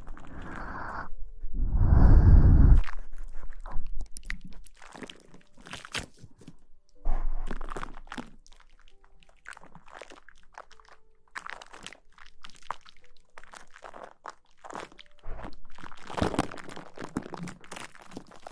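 Close-up ASMR rustling and crunchy scratching right at the microphone: irregular crackles and rustles, with a louder, deeper burst about two seconds in.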